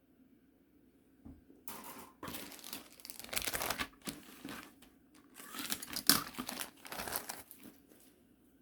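Model kit packaging crinkling as it is handled, in two spells of about two seconds each.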